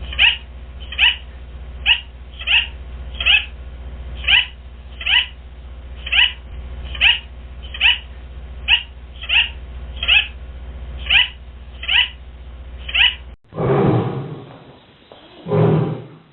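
An animal calling repeatedly: about sixteen short, high-pitched calls, roughly one a second, over a steady low hum. About thirteen seconds in the sound cuts to a different, larger animal giving three long, deep, loud calls.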